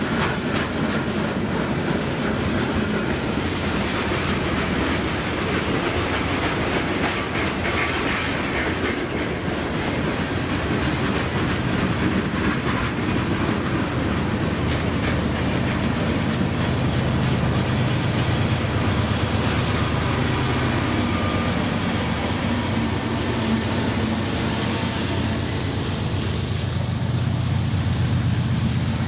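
Long Norfolk Southern manifest freight train rolling past, its car wheels clacking over the rail joints. A low steady drone comes in about halfway through.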